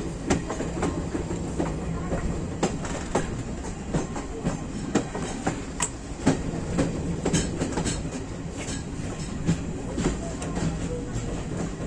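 Moving train running on the rails: a steady low rumble with many irregular clicks and knocks from the wheels on the track.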